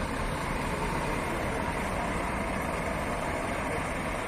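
Scania truck's diesel engine running steadily.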